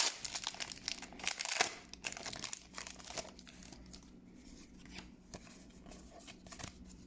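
Foil wrapper of a Pokémon card booster pack crinkling and being torn open, busiest in the first two seconds, followed by quieter handling of the pack and cards.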